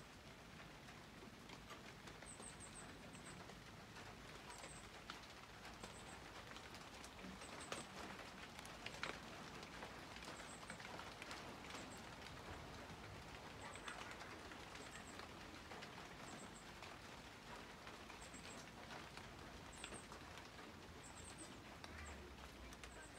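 Faint light rain falling on garden foliage: an even hiss with scattered drip ticks. A small bird chirps through it in short, high clusters of two to four notes every second or two.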